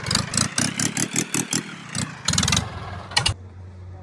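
An engine running in fast, evenly spaced pulses, about seven or eight a second, that cut off suddenly near the end, leaving a quieter steady low hum.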